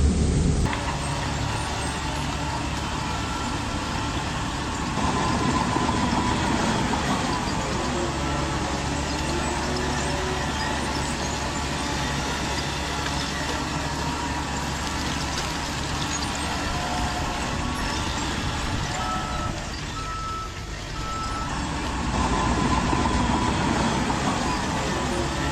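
Radio-controlled construction machines working: a steady low engine-like hum with electric drive motors and gearboxes whining, rising and falling in pitch as the models drive and manoeuvre. About twenty seconds in comes a short run of beeps.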